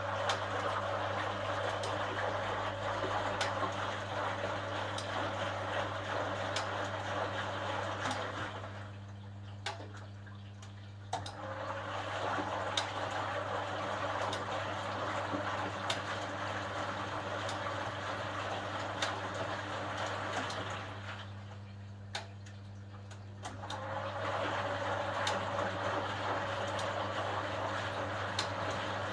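Drum of a 1980 HUWA Automatic Standard 4 washing machine turning laundry through water, sloshing for about nine seconds at a time and pausing twice for about two seconds between turns, over a steady low hum.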